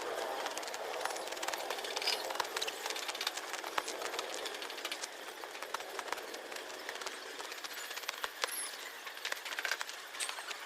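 Hand sickle cutting weeds: a steady rustle of grass and stems with many irregular crisp snaps and clicks.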